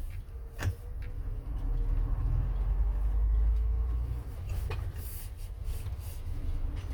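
Motorhome on the move: a steady low road and engine rumble that swells for a couple of seconds, with a few sharp knocks and rattles, the clearest about half a second in and again near the end.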